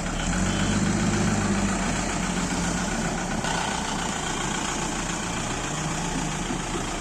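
An engine idling steadily, a little louder in the first two seconds.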